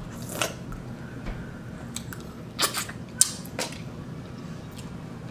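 A handful of short sharp clicks and smacks, four in all, the loudest a little past three seconds in, from eating mussels and handling their shells.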